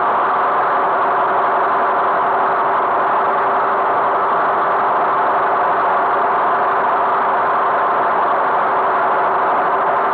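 Tractor engine running steadily, an even, unbroken drone.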